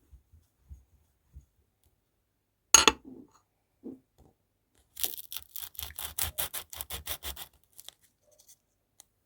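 Flattened sand crunching: one sharp crunch about three seconds in, then a quick run of about a dozen crisp crunches, roughly five a second, lasting about two and a half seconds.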